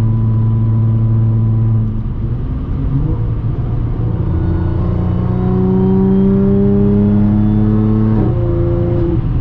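Audi S4 B8.5's supercharged 3.0 V6, with an AWE exhaust and test pipes, heard from inside the cabin. It runs at a steady cruise, then is put under throttle about two seconds in and rises steadily in pitch for about six seconds. Near the end an upshift drops the pitch.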